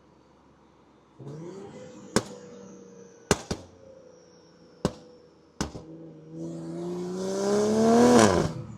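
Tuned BMW X5 40i's turbocharged straight-six through a catless downpipe, with sharp pops and cracks from the burble tune, about five of them. Then the engine pulls hard with a rising note that drops away suddenly near the end.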